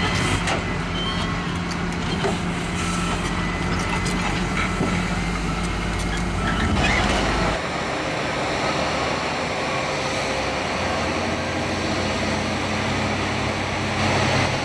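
Heavy machinery engines running steadily, a low engine drone with mechanical noise over it. The sound changes abruptly a little past halfway to a different machine sound.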